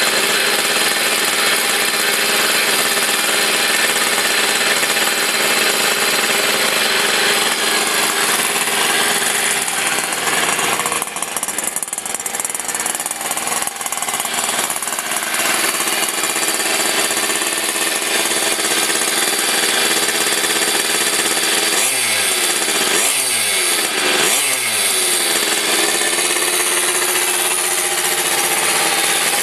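Kreidler moped's small two-stroke single-cylinder engine running on a mini bike ignition, holding a steady buzzing speed. It dips and runs rougher for a few seconds a little before halfway, then is blipped three times near the end, the revs falling away after each.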